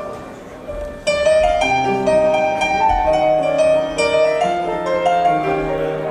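Piano playing an instrumental passage of sustained chords and melody, with a louder entry of bright, ringing high notes about a second in.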